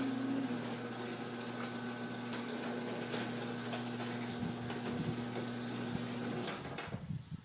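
Craftsman chain-drive garage door opener running with a steady motor hum and a clicking, rattling chain, then shutting off about six and a half seconds in with a few low thumps as the door reaches the end of its travel.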